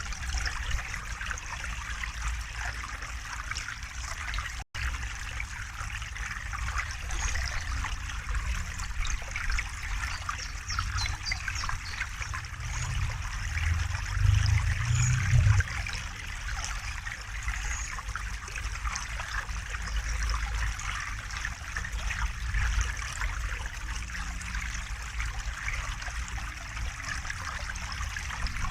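River water running and trickling over rocks, a steady rushing with a low rumble underneath that swells for a couple of seconds about halfway through. The sound cuts out for an instant about five seconds in.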